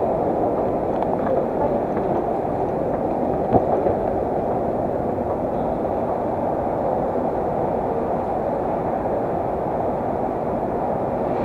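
Steady running noise of a Moscow Central Circle electric train heard from inside the carriage while it travels between stations, with one brief knock about three and a half seconds in.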